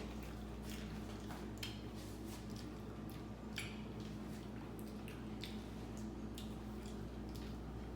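Someone eating khichuri with a spoon: soft, irregular squishy mouth noises and light clicks of the spoon, over a steady low hum.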